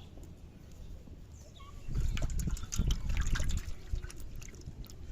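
Water splashing and trickling, loudest for about two seconds in the middle.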